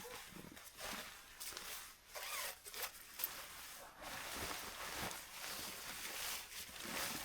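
A zipper pulled open or shut in several short strokes, one with a rising zip near the middle.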